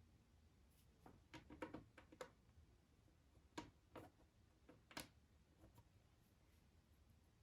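Faint, scattered clicks and taps of handling: a quick cluster about a second in, then three sharper single clicks about a second apart.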